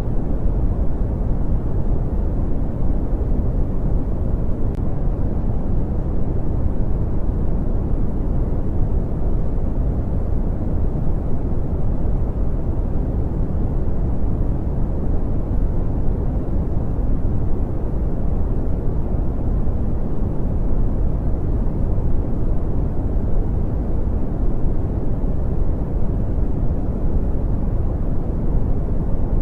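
Brown noise: a steady, deep rushing hiss, strongest in the low end and fading toward the top.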